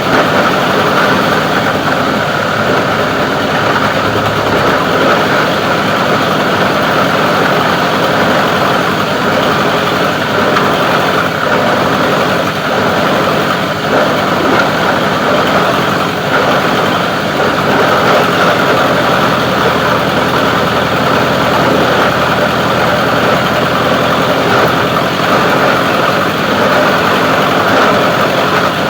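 Plastic-recycling grinding machine running with a loud, steady noise that holds unchanged throughout.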